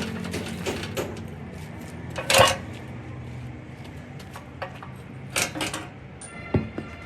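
Metal tools and parts clinking and clanking on a workshop bench, with one loud ringing clang about two seconds in and a few lighter knocks near the end, over a low steady hum.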